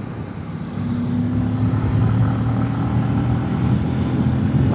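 Motorcycle riding at steady road speed, wind rumbling over the microphone; about a second in, a steady engine hum rises and holds at an even pitch.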